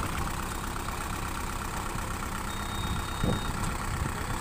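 Diesel tractor engine idling steadily, with a short louder sound about three seconds in.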